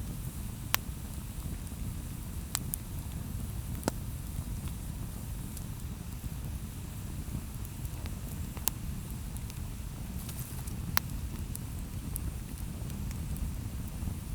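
Wood campfire burning: a low steady rumble with sharp crackling pops from the burning wood, a handful of loud ones spread irregularly among fainter ticks.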